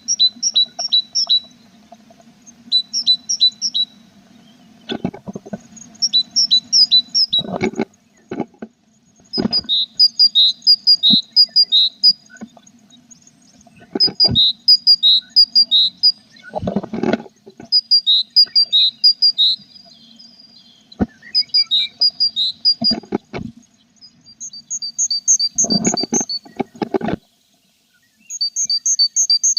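Tits chirping in repeated short bouts of quick, clear two-pitched notes, with a short gap between bouts. Several dull knocks and scrapes come between the bouts, over a steady low hum.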